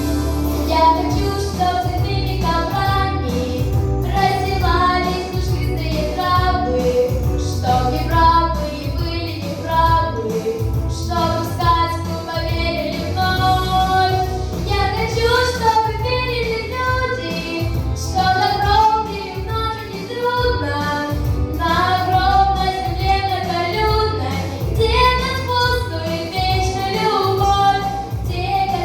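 A girl singing a song over instrumental accompaniment, with a steady pulsing bass beneath the melody.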